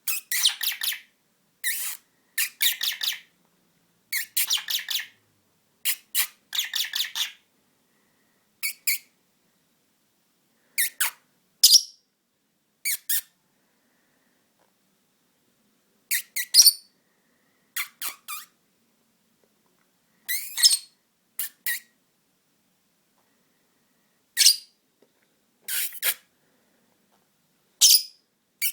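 Pet lovebird giving bursts of short, high-pitched squeaky chirps and squawks, rapid clusters in the first few seconds, then scattered single calls with pauses between.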